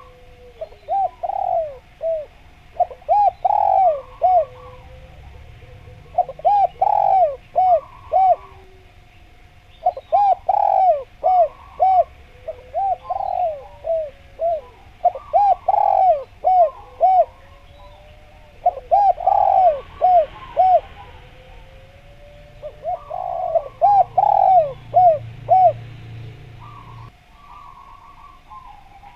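Spotted dove (derkuku/tekukur) cooing over and over, each phrase a quick run of several rising-and-falling coos, with the phrases coming every few seconds. A faint steady tone and faint high chirps of small birds sit behind it.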